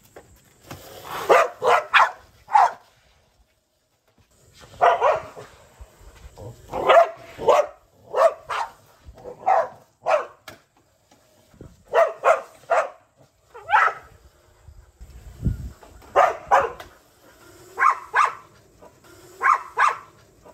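Dog barking repeatedly in short bursts of one to four barks, with pauses of a second or two between them.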